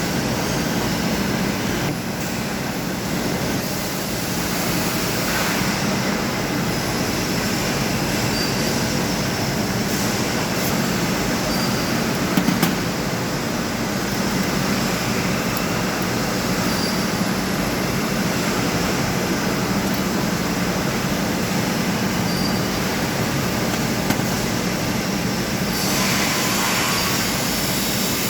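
Thermal fogging machine running: the pulse-jet engine makes a loud, steady drone.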